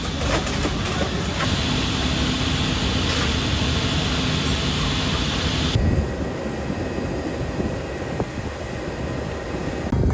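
Steady rumble of aircraft engine noise with a held hum. About six seconds in, the sound changes abruptly to a duller rumble.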